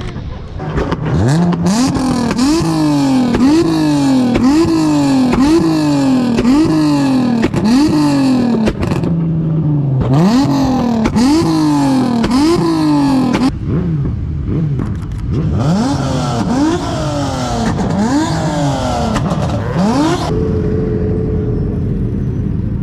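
A car engine being revved in quick repeated blips, the pitch rising and falling about once a second. There are two runs of revs with a short pause between them, and then it settles to a steady idle near the end.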